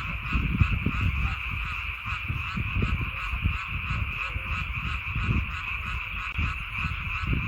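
Chorus of many frogs calling at once: a dense, steady, rapidly pulsing din, with irregular low rumbling underneath.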